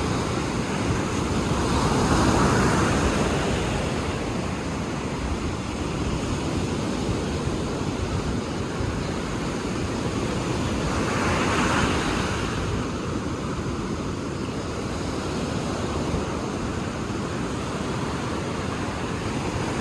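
Ocean surf: a steady wash of waves, with two waves breaking louder, about two seconds in and again about eleven seconds in.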